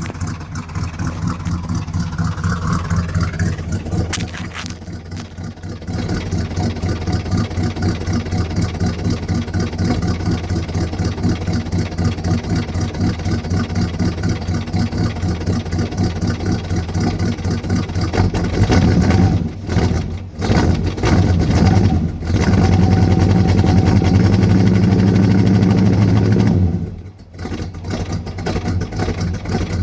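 Ford 400M V8 with a mild cam, running cold just after a cold start with no catalytic converters, idling with a steady loping pulse. About two-thirds in it is revved in a few short blips, then held at higher revs for about four seconds and dropped sharply back to idle.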